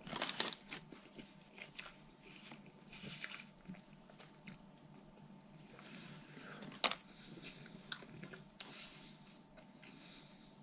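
A person chewing a mouthful of burger close to the microphone, with soft wet mouth clicks throughout. There is a short rustling clatter right at the start as the sandwich is set down on the plate, and a sharper click about seven seconds in.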